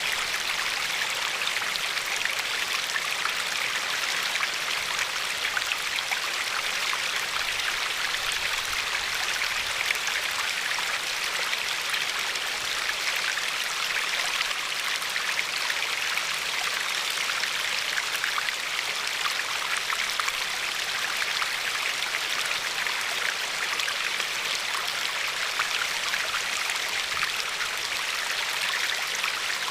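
River water flowing and lapping along a pebbly shore: a steady rushing babble with many small splashes.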